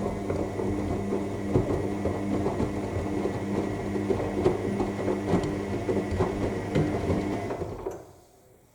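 AEG 7000 Series washing machine turning its drum during the main wash: a steady motor hum with a faint whine, over irregular clattering and knocks from the tumbling laundry. It stops abruptly near the end as the drum comes to rest.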